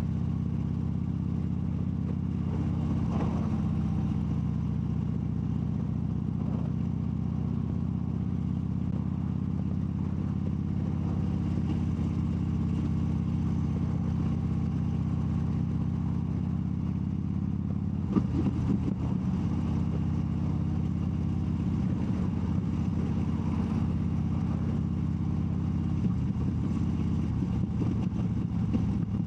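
Harley-Davidson Dyna Wide Glide's 103 cubic-inch (1690 cc) V-twin engine running steadily under way, heard from the rider's seat. The engine note breaks and shifts about 18 seconds in, then settles into a steady run again.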